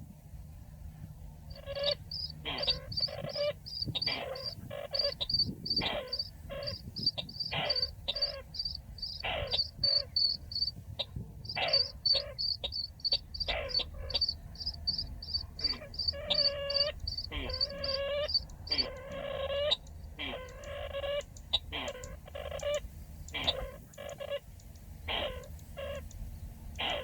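A bird the trappers call chằng nghịch gives fast series of short, harsh call notes, one after another, starting about a second and a half in.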